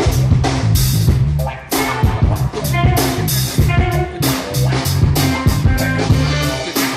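Live blues-rock band playing loud: drum kit hits over a bass line with electric guitar, with a short break in the beat about a second and a half in.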